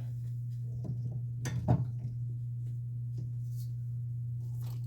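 Steady low hum with a few light clicks and knocks of small tools and parts being handled, the sharpest pair about a second and a half in.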